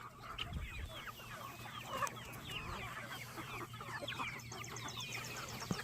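A flock of chickens clucking and calling, many short falling calls overlapping. A brief rapid high trill comes in about four seconds in.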